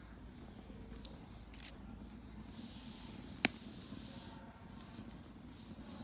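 Campfire of burning wood, a steady low rumble with a few sharp crackles and one loud pop about halfway through.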